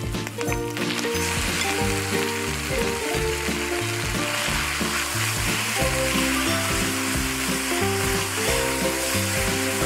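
Marinated beef slices going into hot oil in a wok with garlic and chilies, sizzling steadily from about a second in as they fry, with a spatula stirring them. Background music plays underneath.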